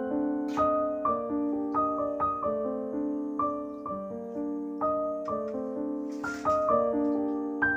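Background piano music, a steady run of single struck notes, with a short burst of noise about six seconds in.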